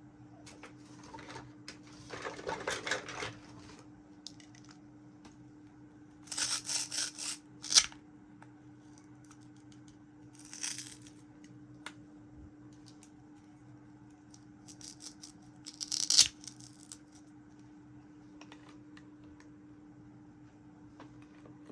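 Small plastic toy pieces and packaging being handled: a few separate bouts of rustling and rapid light clattering, each ending in a sharp click, over a steady low hum.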